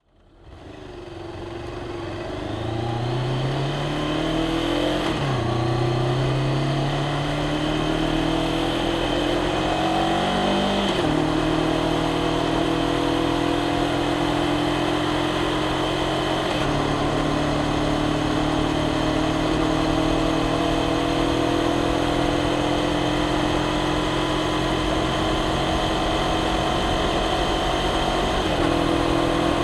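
Honda CBR500R's 471 cc parallel-twin engine and exhaust under acceleration, revs climbing and falling sharply at upshifts about 5, 11 and 16 seconds in. It then cruises at nearly steady revs that slowly creep up, and the pitch steps up suddenly near the end.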